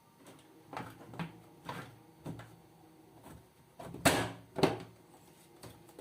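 A series of short knocks and clacks, as of plastic washing-machine panels and parts being handled and fitted. The two loudest are a pair about four seconds in, half a second apart.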